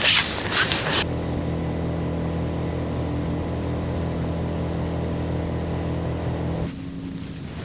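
A small electric motor on the fishing boat hums steadily at one even pitch, switching on about a second in and cutting off suddenly after about six seconds.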